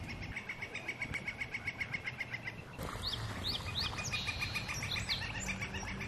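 Northern flicker giving its long call, a fast, even run of 'wick-wick-wick' notes lasting about two and a half seconds. After that come several short, high, sliding bird notes.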